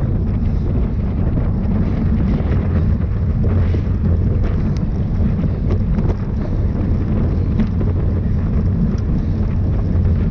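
Wind buffeting the microphone of a camera on a moving bicycle: a loud, steady low rumble with a few faint clicks.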